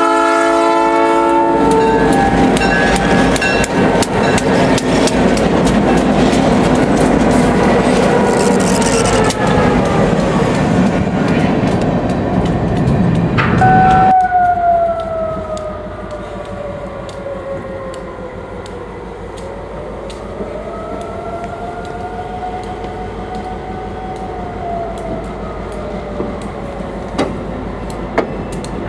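A Chesapeake and Indiana SD-M diesel locomotive passes close by, its horn cutting off a second or so in, followed by loud engine noise and wheel clicks over the rail. About halfway through this gives way to a slow-rolling train of flatcar and locomotives, its steel wheels squealing in a long tone that slides down and up in pitch.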